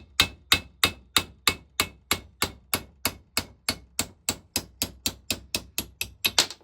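Hammer tapping steadily on the cast vaporiser of a Lister TM stationary engine, about three to four light metallic taps a second with a short ring after each, the hammer's own weight doing the work, to shock seized parts free. The taps quicken slightly and stop after a louder last one at the end.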